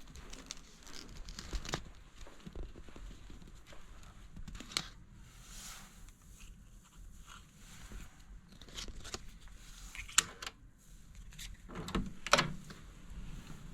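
Quiet room sound with scattered small clicks and rustling, as of things being handled; a sharp click about ten seconds in.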